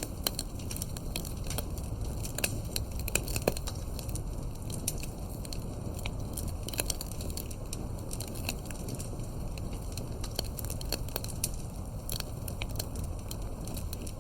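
Wood fire crackling: irregular sharp pops and snaps, a few louder ones about three seconds in, over a steady low rumble of burning.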